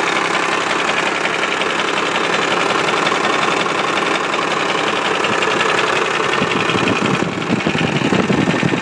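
Cummins 12-valve 5.9 L inline-six diesel running with a steady knock in its clatter, which the owner suspects comes from the injection pump. About seven seconds in the sound turns deeper and more uneven.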